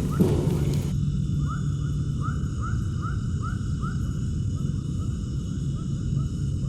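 Short rising animal calls repeated about two to three times a second over a steady low hum, with a brief knock just after the start.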